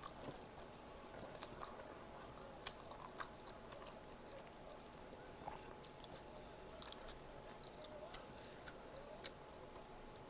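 A person chewing food close to the microphone, quietly, with scattered small clicks and crackles.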